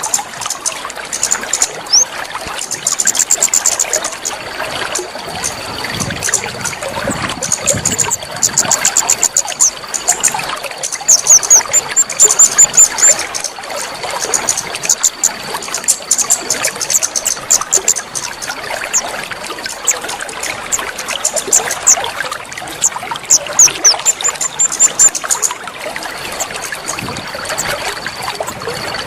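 Water trickling and splashing steadily, with rapid high-pitched bird chirps and trills throughout and a thin steady high tone through much of it: a water-therapy track used to get a caged songbird singing.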